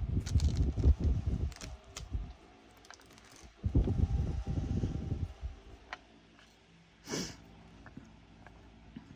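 Close handling noise of small craft supplies: two bouts of clattering and rustling, each about two seconds long, then a short hiss about seven seconds in.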